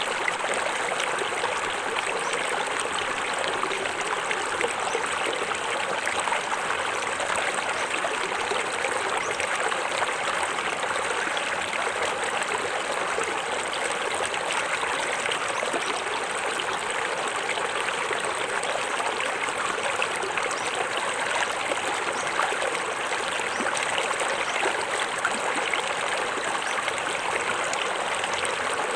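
Small forest waterfall: water splashing and trickling steadily over rocks, with no let-up.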